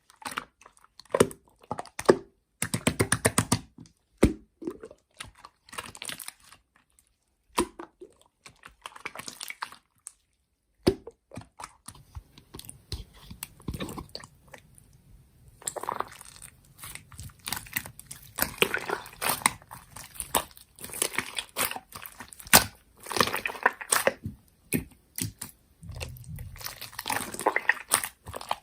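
Slime being squeezed and poked by hand, making irregular wet clicks, pops and crackles, with a couple of brief pauses.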